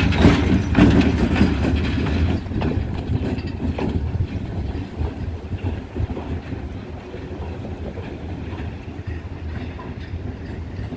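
Diesel-hauled passenger train pulling away after passing close by: a low engine and wheel rumble with wheels clicking over rail joints over the first few seconds, fading steadily as the train recedes.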